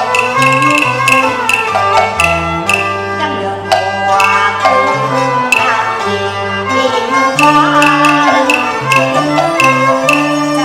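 Instrumental passage of Cantonese opera-style traditional Chinese music: bowed string melody with sliding notes over a held bass line, with sharp percussion strokes keeping a steady beat.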